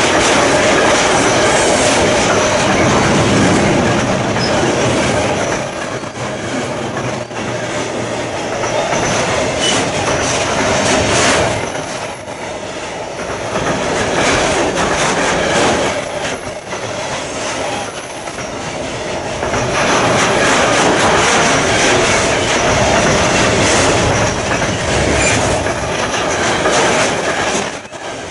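Loud, continuous mechanical rumbling and rattling of a moving vehicle, swelling and dipping in loudness every few seconds, with a steady tone running through it.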